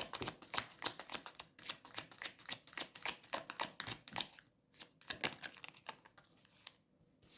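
Tarot cards being shuffled by hand: a rapid run of crisp card clicks for about four and a half seconds, then a few scattered taps and slaps as cards are drawn and laid down.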